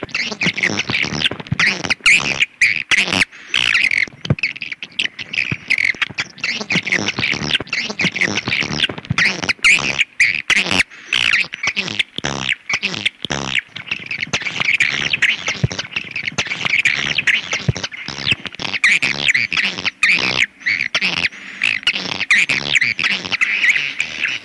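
Swiftlets calling: a dense, unbroken chorus of high twittering chirps mixed with rapid sharp clicks, as in the call recordings played to draw swiftlets to a nesting house.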